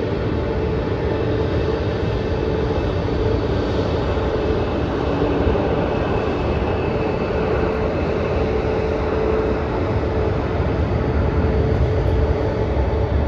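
Jet airliner engines running: a steady loud rumble with a humming tone held throughout.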